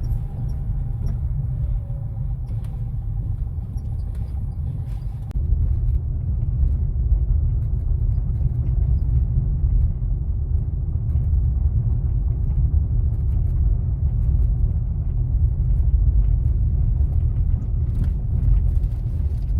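Car driving on the road, heard from inside: a steady low rumble of road and tyre noise that gets louder about five seconds in, with a few faint knocks.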